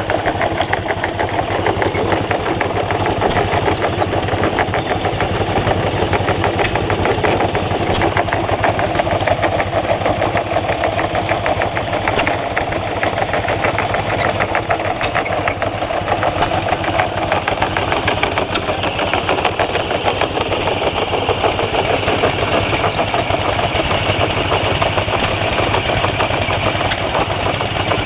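Antique stationary engines running steadily with a rapid, even beat: a John Deere LUC and an IHC LB hit-and-miss-era farm engine driving a burr mill and grain elevator by flat belts.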